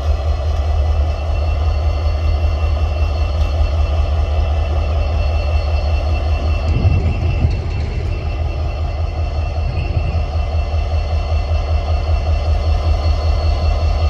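EMD SD40-2 diesel locomotive's 16-cylinder two-stroke engine running steadily just after start-up, a deep, even low rumble.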